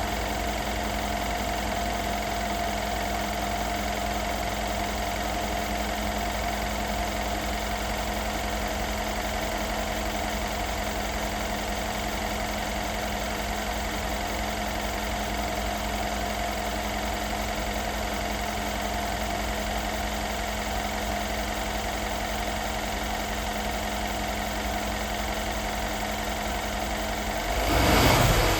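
Mercedes-Benz SL550's twin-turbo V8 idling steadily after a cold start, then revved up near the end.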